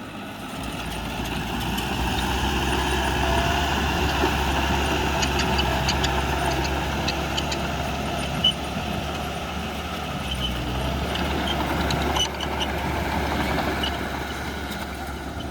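Heavy diesel engine of a bulldozer running steadily, growing louder over the first two seconds, with scattered light metallic clicks and clanks through the middle and a brief knock about 8 seconds in.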